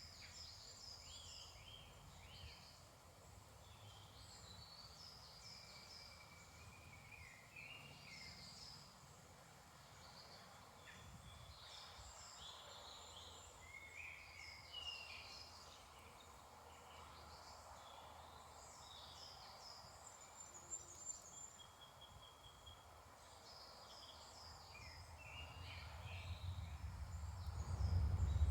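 Woodland dawn chorus: several birds singing and calling, with short chirps and trills overlapping throughout. A low rumble builds near the end and becomes the loudest sound.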